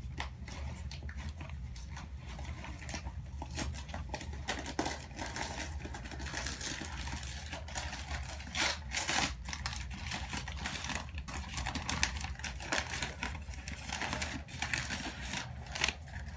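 Packing material crinkling and tearing in irregular bursts as an orchid is unwrapped from its shipping box.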